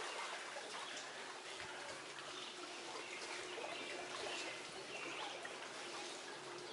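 Lake water lapping and trickling softly along the shore, a steady quiet wash of small splashes.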